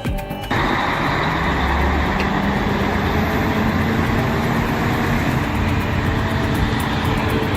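Heavy vehicle engine running steadily under load, a dense rumble that cuts in suddenly about half a second in, after a moment of music with a beat.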